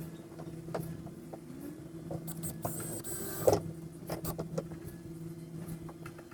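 A small motor humming steadily, with scattered light clicks and knocks and one louder knock about three and a half seconds in.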